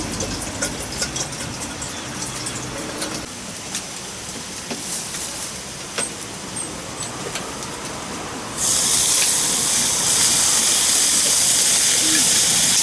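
Rain pattering steadily, with scattered sharp taps of single drops. About two-thirds of the way in, a much louder steady hiss cuts in abruptly.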